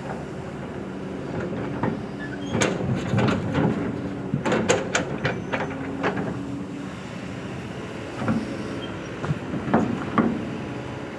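Kobelco SK200 excavator's diesel engine running steadily, with bursts of clanks and clatter as a load is dumped into the steel bed of a dump truck, in three clusters about a second or two long.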